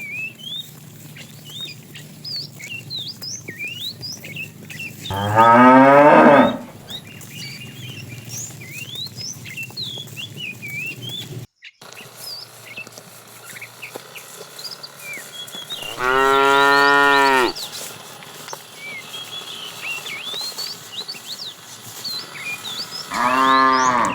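Cattle mooing three times: a loud moo that falls in pitch about five seconds in, a steadier held moo about sixteen seconds in, and a shorter one near the end.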